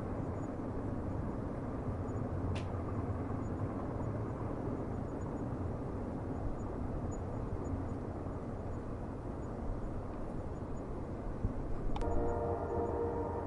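Distant train rumbling steadily, with a train horn sounding near the end.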